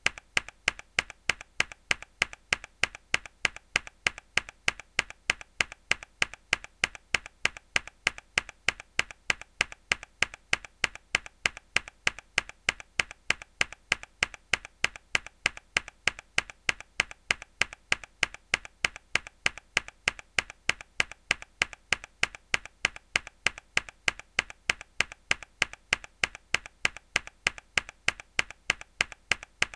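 A single hard key press on a mechanical keyboard, looped: sharp clicks that repeat evenly several times a second.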